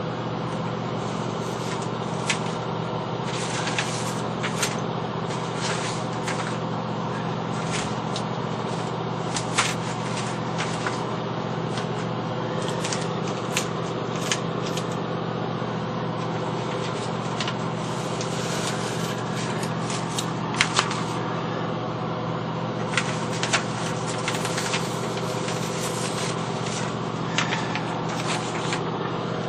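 Short, irregular scraping strokes of a hand tool working the rusted metal top of a washing machine, a few sharper than the rest, over a steady low hum.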